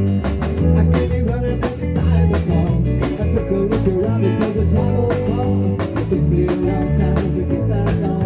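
Band playing an instrumental passage with guitar, bass and drums over a steady beat.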